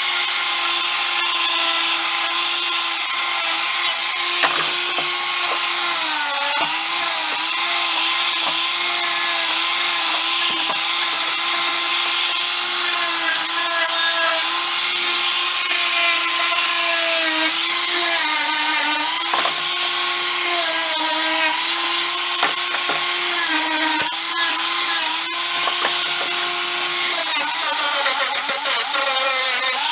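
Electric power tool running steadily at high speed on a workpiece, with a hissy grinding or sanding wash; its motor pitch sags briefly several times as it is pressed harder into the work.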